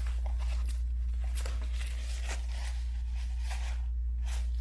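Small eating noises: a few faint clicks and scrapes over a steady low hum.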